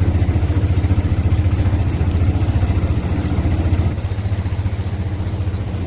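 Small engine running steadily with a fast, even low pulse, dropping slightly in level about four seconds in.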